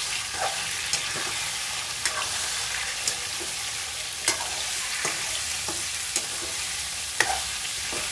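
Raw chicken pieces sizzling in hot oil in a black wok as they start to sear with browned onion. A metal spoon stirring them clicks and scrapes against the pan about once a second, with the sharpest clack about seven seconds in.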